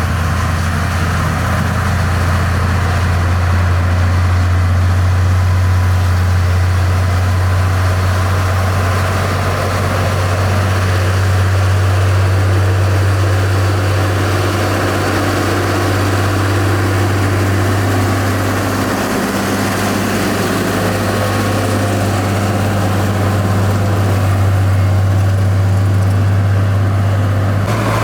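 Heavy construction machine's engine running steadily in a low, even drone, with a brief dip about nineteen seconds in.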